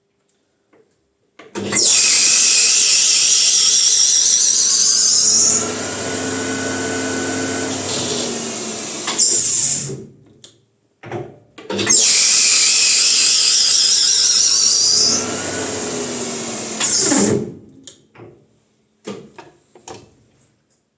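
Bicycle disc brake rotor spinning at high speed in a metal lathe, run up twice for several seconds each time. Each run opens with a loud, wavering high squeal of the brake pads on the rotor, settles into a lower, steadier running sound with the lathe's motor and belt, then ends with a short burst and stops abruptly. The owner says it sounded strange and finds the disc touching something.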